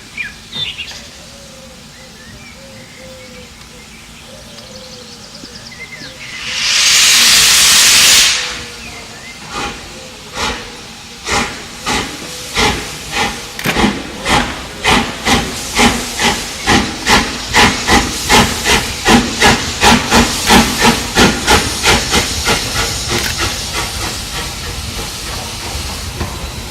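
Steam locomotive starting away: a loud burst of steam hiss lasts about a second and a half, then the exhaust beats begin slowly and quicken steadily to about three a second. They grow louder and then soften as it pulls away.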